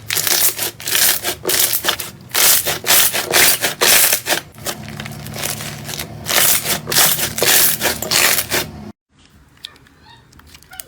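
Slime being squeezed and worked by hand, making dense crackling and squishing in quick bursts. It cuts off abruptly about nine seconds in, giving way to a much quieter stretch.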